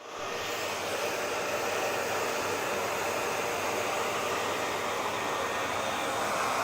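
Hair dryer running continuously: a steady, even rush of blown air. It comes up from silence within the first half second.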